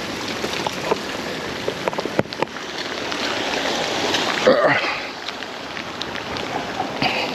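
Steady rain falling, with individual drops ticking sharply close to the microphone.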